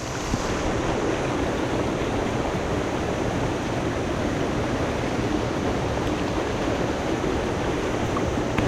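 Mountain headwater stream rushing steadily, an even wash of flowing water.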